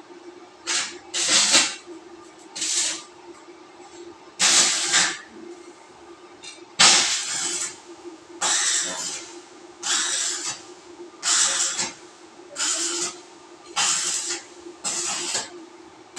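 Power sprayer letting out short bursts of hissing spray, about one every second and a half, over a steady motor hum.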